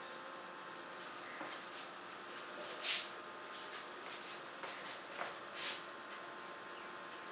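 A paintbrush stroking and dabbing on paper: a run of short, soft scratchy strokes, two of them louder, over a steady faint hiss.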